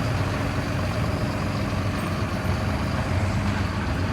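Steady drone of a vehicle engine with road noise, heard from inside the moving vehicle.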